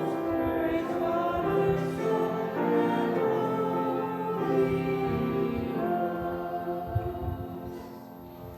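Congregation singing a hymn together, held notes changing every second or so, the sound dying away over the last couple of seconds as the hymn ends.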